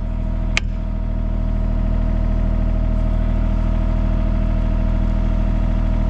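Diesel excavator engine running steadily at a constant speed, with a single sharp click about half a second in.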